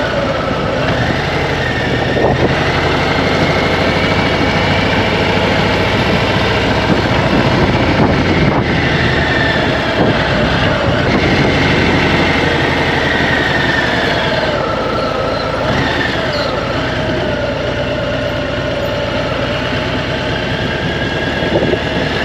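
Motorcycle engine running under way on the road, its pitch slowly rising and falling with the throttle, over steady wind and road noise.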